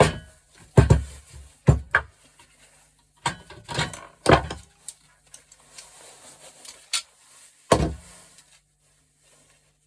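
Scrap metal parts from a dismantled gas stove being handled and set down while sorting: a series of clunks and clatters, in bunches early on and about three to four seconds in, with two single knocks near the end.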